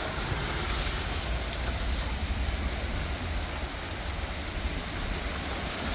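Heavy rain pouring steadily, big drops making a dense hiss, with a low rumble underneath.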